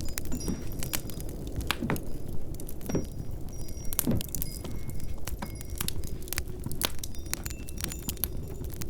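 Wood fire crackling in a fireplace over a steady low wind, with scattered light clinks and a few duller knocks.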